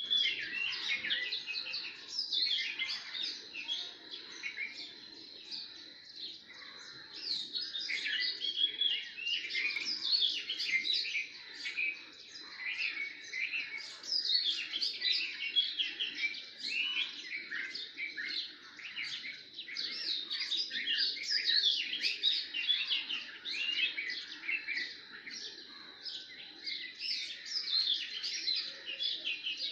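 Many small birds chirping continuously, their short calls overlapping, over a low background hum and a faint steady high tone.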